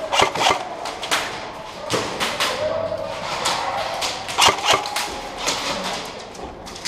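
Airsoft guns firing in an indoor arena: scattered sharp pops, a quick string of them in the first second, another about two seconds in, and a pair about four and a half seconds in.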